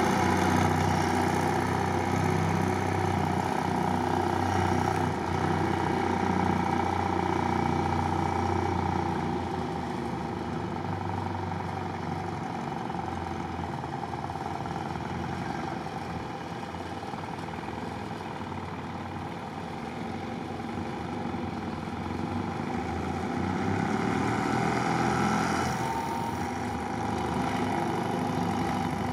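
BMW GS motorcycle's boxer-twin engine running at low speed as the bike rides around. It fades as the bike moves off and grows louder again as it comes back near the end.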